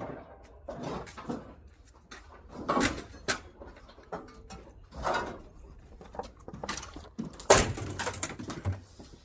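Irregular knocks and clatter of hard objects being handled and set down, with one sharp, loud knock about seven and a half seconds in.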